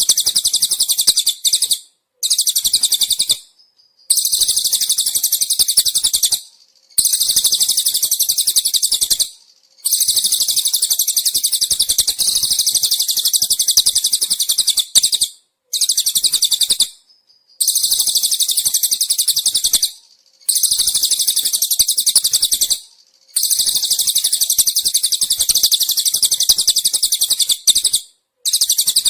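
A looped birdsong-training recording of cililin birds and crickets: high-pitched, rapidly pulsed trills in bursts of one to three seconds with short gaps between them.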